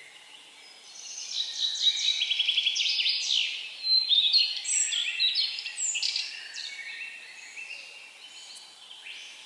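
A songbird singing one long, varied phrase of rapid trills and high whistled notes, starting about a second in and fading out after about six seconds, over a faint steady outdoor hiss.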